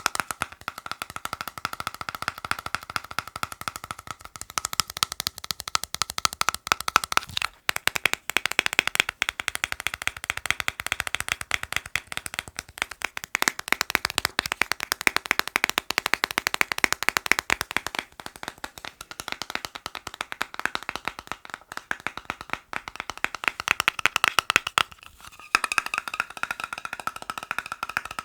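Rapid fingertip and fingernail tapping on assorted hard objects, many taps a second, each object ringing with its own tone. The tapped object changes several times, with short breaks in the tapping at about 7.5 and 25.5 seconds in.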